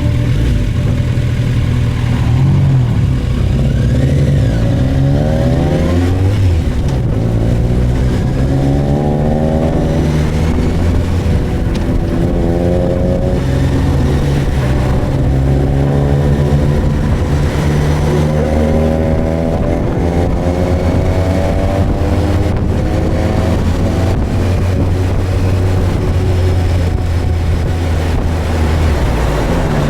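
Suzuki GSX1250FA inline-four motorcycle engine under way, its revs climbing several times, then holding steady near the end.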